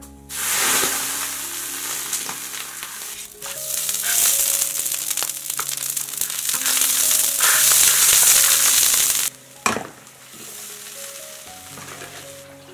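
Pork trotter pieces sizzling loudly in hot oil in a wok. The frying starts suddenly just after the start and cuts off sharply about three seconds before the end, followed by a single sharp knock.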